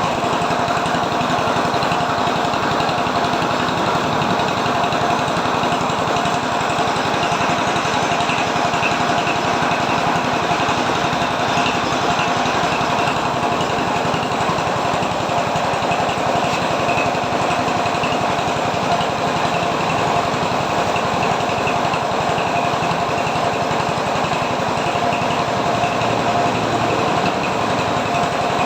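An engine running steadily, with an even mechanical rattle and a few constant tones on top.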